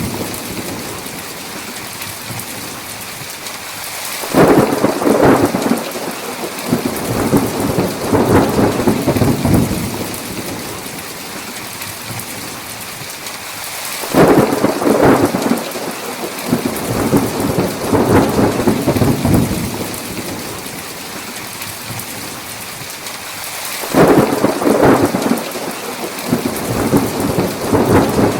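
Thunderstorm with heavy, steady rain and rolling thunder: three peals, about four, fourteen and twenty-four seconds in, each starting suddenly and rumbling on for several seconds before fading back into the rain.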